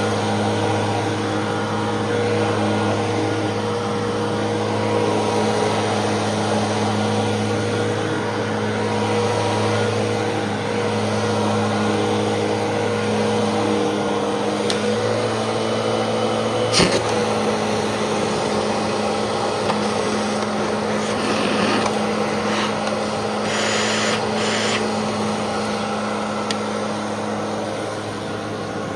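Fantom Fury 10-amp upright vacuum cleaner running steadily while vacuuming, a constant motor hum and rush of air. There is one sharp click a little past halfway and some brief rattling near the end.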